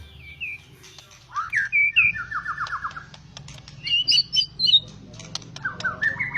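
White-rumped shama (murai batu) singing loud, varied phrases. Sliding whistles lead into a quick run of about eight repeated notes, then higher, rapid chattering notes, and rising whistles near the end. Sharp clicks fall between the phrases.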